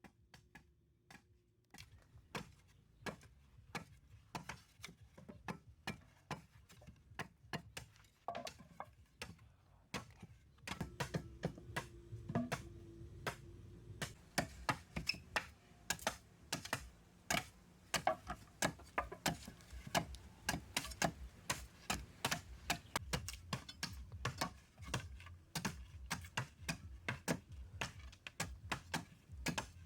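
A long series of irregular sharp knocks and taps, like hand tools striking wood or earth. They come a few a second and grow denser and louder about a third of the way in.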